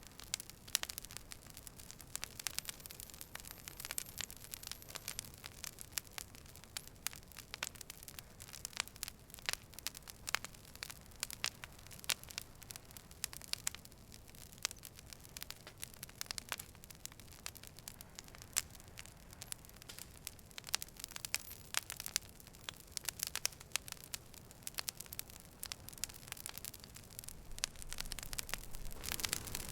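Campfire crackling: irregular sharp snaps and pops, many a second, over a soft steady hiss.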